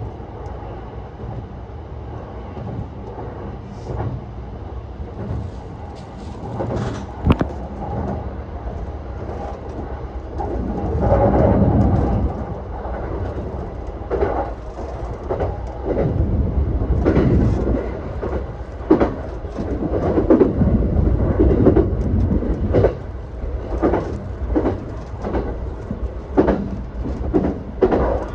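Yokosuka Line E235 series 1000 electric train running on the rails: a steady rumble that grows louder about ten seconds in, then a run of sharp wheel clacks over rail joints.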